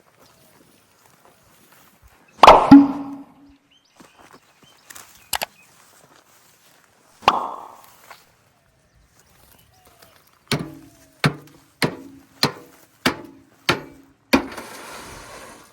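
Heavy blows on metal, each leaving a short ring: two single strikes, then a steady run of about six strikes a little over half a second apart.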